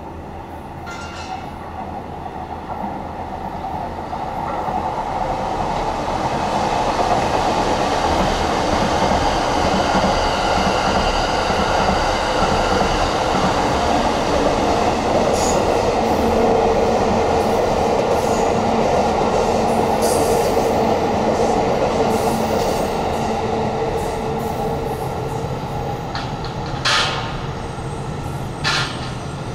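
A train passing on the tracks. The running noise of wheels on rails swells over the first several seconds, holds with a steady whine for about fifteen seconds, then eases off, with a few sharp clicks near the end.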